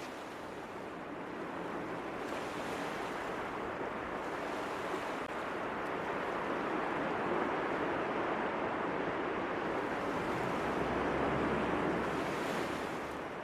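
Ocean surf washing in: a steady rush of waves that slowly swells and eases off near the end.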